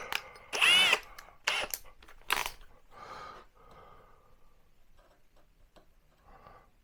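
Cordless drill run in short bursts. The loudest comes just under a second in, with its pitch rising and falling as it speeds up and slows, then shorter bursts follow at about one and a half, two and a half and three seconds, with fainter clicks and handling after.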